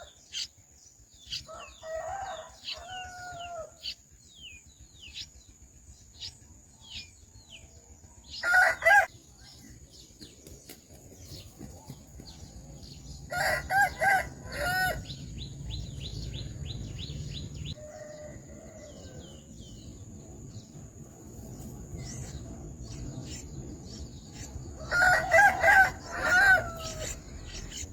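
Rooster crowing three times, loud pitched calls about 8 seconds, 13 seconds and 25 seconds in, over steady high, short falling peeps from chicks.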